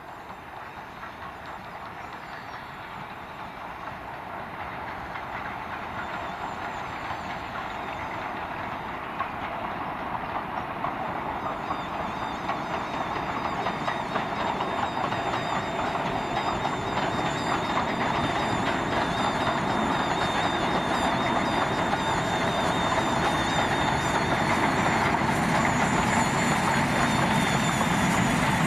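Train approaching along the line, its running noise growing steadily louder.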